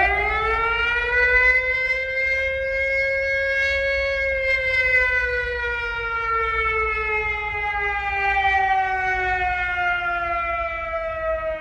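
Civil-defense-style siren wailing: its pitch rises over about the first second and a half, holds, then winds slowly down until it cuts off near the end. A steady low rumble runs underneath.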